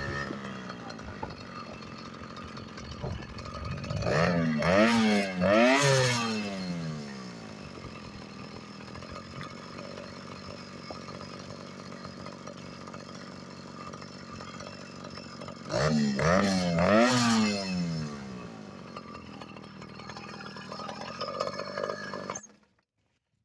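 Small two-stroke motorized-bicycle engine running steadily, with two loud spells of revving where the pitch swings up and down several times. The sound cuts off abruptly near the end.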